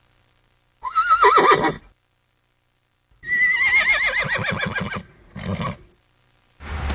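Horse whinnying twice: high, quavering calls that fall in pitch, the second one longer. A short, lower sound follows near the end.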